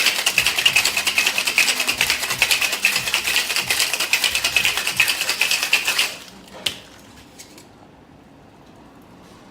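A cocktail shaker being shaken hard with no ice yet, a dry shake to foam the egg white: a fast, continuous rattle that stops abruptly about six seconds in, followed by a single click.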